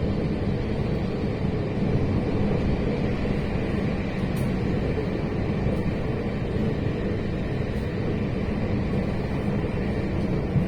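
Steady running rumble of a passenger train heard from inside the carriage, with a constant low hum underneath.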